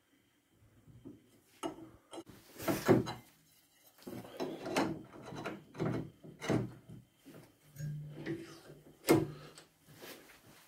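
Irregular knocks and short scraping and rubbing sounds of hand work with tools and material at a workbench.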